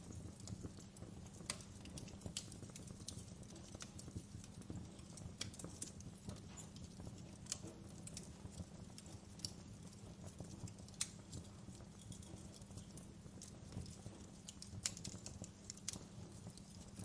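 Wood fire crackling in a fireplace: irregular snaps and pops over a low, steady rumble of burning logs and embers.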